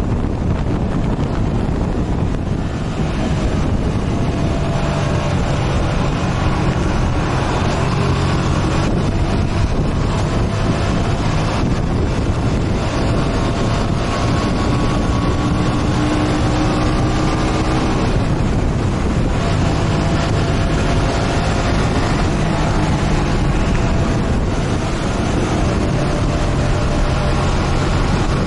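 Motorcycle engine running while riding, its pitch drifting up and down gently with the throttle, under heavy wind rushing over the microphone.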